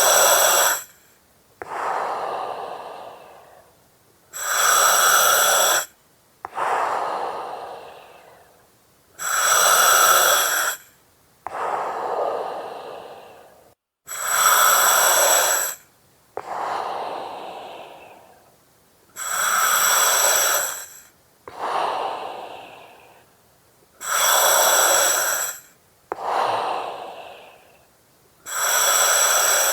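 Slow, regular breathing through an oxygen mask, about one breath every five seconds. Each cycle is a loud, steady hiss of gas through the mask regulator with a whistling edge, then a softer breath that fades out.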